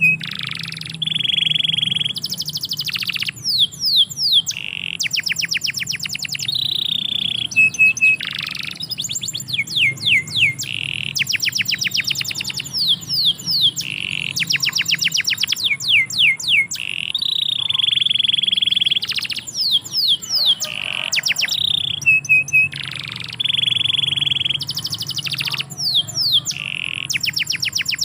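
Domestic canary singing a long, varied song: fast trills of rapidly repeated notes, runs of quick falling sweeps, and held buzzy rolls, with brief pauses between phrases.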